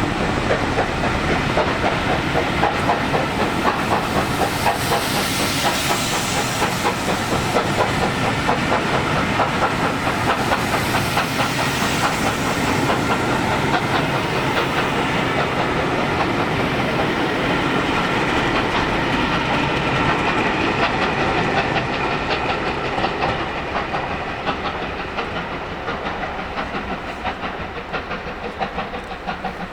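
A train passing at speed, its wheels clattering steadily over the rails. It fades away over the last several seconds.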